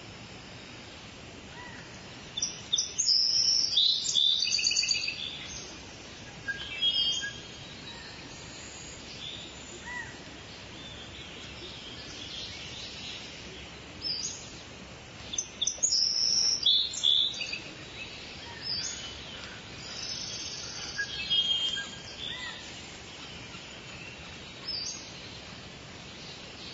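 Lewin's honeyeater calling in two loud bursts of rapid, high staccato notes, the first a few seconds in and the second about halfway, with a few short single calls between, over a steady background hiss.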